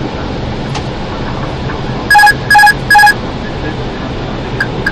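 Three loud electronic beeps from the Airbus A321's cockpit alert system, evenly spaced about a third of a second apart, each a clear pitched tone of about a quarter second, over the steady rush of airflow and engine noise in the flight deck. Two faint short clicks follow near the end.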